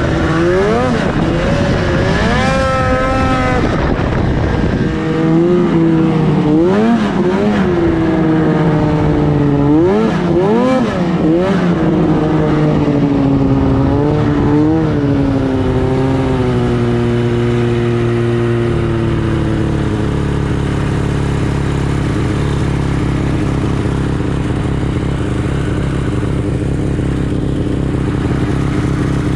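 2004 Arctic Cat F6 snowmobile's 600 cc two-stroke twin revving up and down repeatedly, then settling to a steady speed for the last ten seconds or so.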